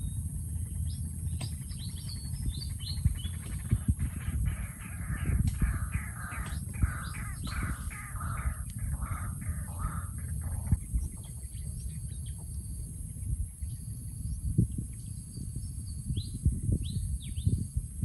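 Wild birds calling: a fast run of harsh, raspy calls from about four seconds in until about eleven seconds, with thin high chirps and whistles before and after. A steady low rumble runs underneath.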